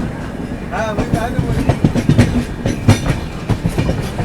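Passenger train moving off from a station, its wheels clacking over rail joints and points with a steady rumble of the carriage.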